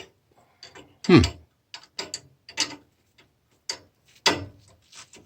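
Hand tools and small metal parts clicking and scraping irregularly as screws are cranked down on a steam boiler water feeder valve, with a louder sliding sound falling in pitch about a second in and another sharp scrape near the end.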